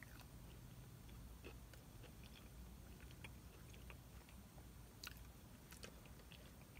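Faint close-miked mouth sounds of chewing a crispy chicken biscuit, with small wet clicks scattered throughout and two sharper clicks about five seconds in, over a low steady hum.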